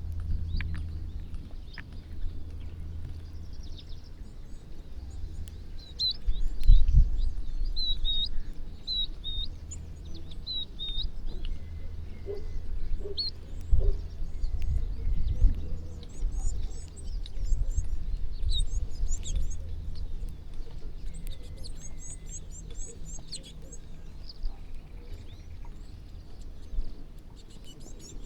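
Many small birds chirping and calling, with short high notes and quick runs of notes, over a low rumbling noise that swells louder a few times.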